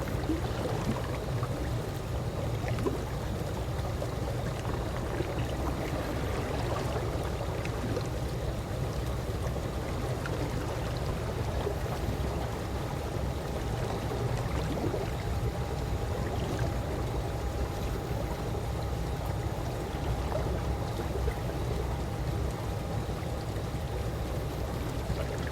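Calm swimming-pool water, a steady low wash with small scattered splashes and trickles. A faint steady tone comes in about halfway.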